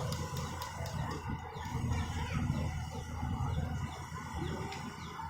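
Excavator's diesel engine running steadily with a low hum, with faint bird-like chirping calls and a few short clicks over it.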